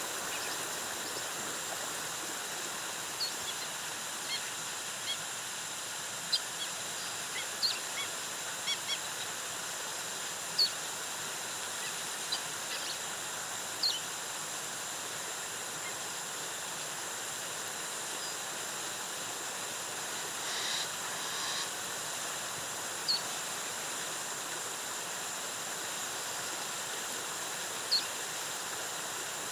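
Waterfall rushing steadily, with short high bird chirps scattered over it and a brief rapid stuttering call a little past the middle.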